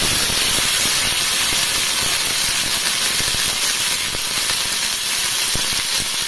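Onion pieces and garlic cloves sizzling and spattering in very hot ghee in a kadhai: a dense, steady crackle.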